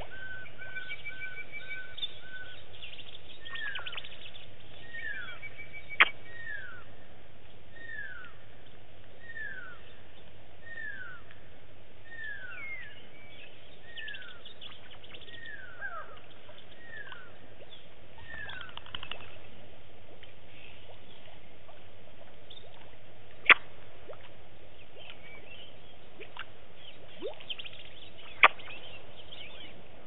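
Birds calling over a steady outdoor background: a quick run of short even notes at the start, then a long series of short downward-slurred whistles, about one every second and a half, that stops about two-thirds of the way through. Three sharp clicks stand out, the loudest sounds.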